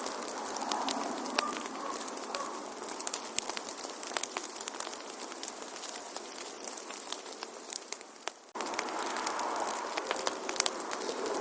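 Wood fire in a fireplace crackling, with frequent sharp pops over a steady hiss. About eight and a half seconds in, the sound dips and then cuts back in abruptly.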